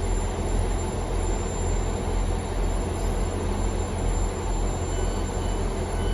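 Two-carriage passenger train running at the platform: a steady low rumble.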